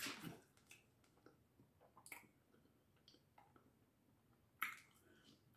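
Faint wet mouth clicks and smacks of someone chewing food, a few scattered over near-silence: one at the start, one about two seconds in and one near the end.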